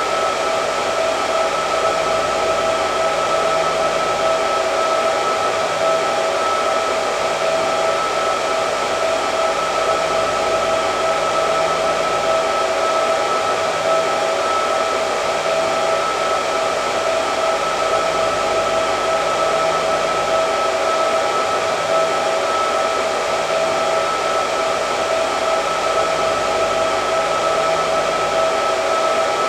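Hair dryer running steadily: a constant rush of air with a steady high whine from the motor.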